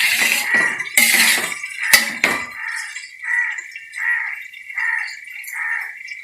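Metal spoon clinking and scraping against a cooking pan for the first two and a half seconds, stirring in just-added turmeric powder. A rhythmic call then repeats about once every 0.7 seconds over a steady high whine.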